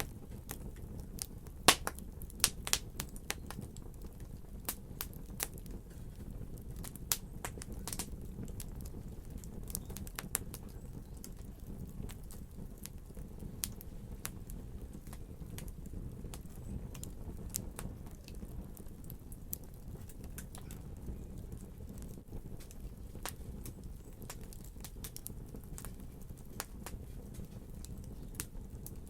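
Wood fire in a fireplace burning with a low, steady rumble and irregular sharp crackles and pops, the loudest pops coming in the first few seconds.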